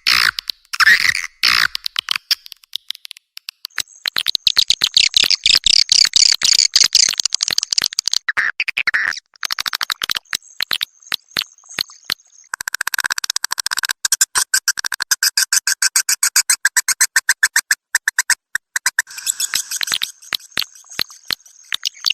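Swiftlet lure-call recording: rapid trains of twittering clicks and short buzzy chirps, all high-pitched, with brief pauses. It is the kind of call played to draw swiftlets into a nesting house. The chirping grows denser and busier about halfway through.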